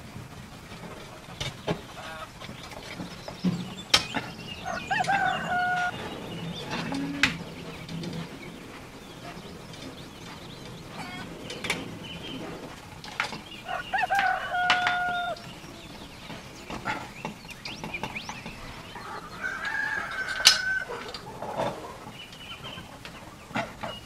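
A bird crowing three times, about 5, 14 and 20 seconds in, each call rising and then held level for about a second. Sharp clicks come in between, from push-fit plastic fittings and metal parts being handled.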